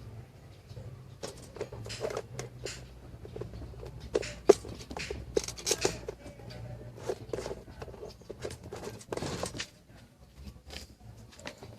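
Irregular clicks, taps and light knocks of small hard objects being handled, one sharper knock about four and a half seconds in, over a low steady hum.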